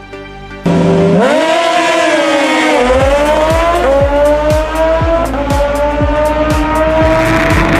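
A sport motorcycle's engine revving hard and accelerating, coming in suddenly under a second in. Its pitch climbs, dips about three seconds in, then climbs again in steps, over electronic music with a steady kick-drum beat.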